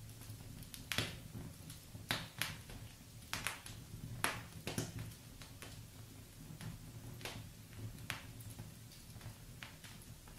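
Wood fire burning in a fireplace, with a low steady rumble and irregular sharp crackles and pops from the burning logs.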